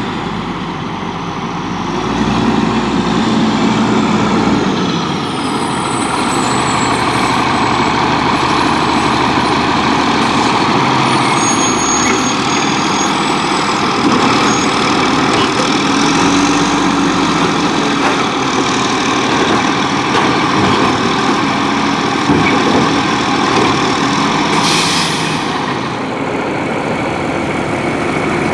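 Volvo WXLL garbage truck with a Labrie Expert 2000 body, its diesel engine running loudly and steadily, with a short hiss of air near the end.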